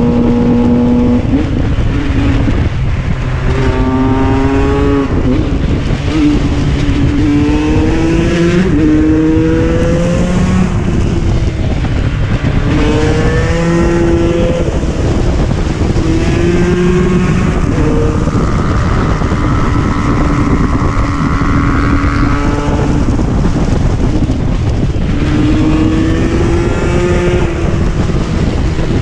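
KTM 125 EXC's single-cylinder two-stroke engine being ridden hard, revving up and shifting again and again, its pitch climbing and then dropping at each gear change, over a constant rush of noise.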